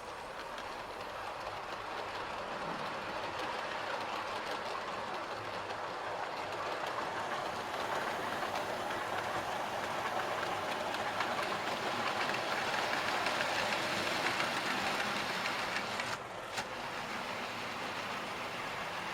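Hornby model train running on the layout's track: a steady rolling rattle of wheels over the rails that slowly grows louder, dips briefly about sixteen seconds in, then carries on.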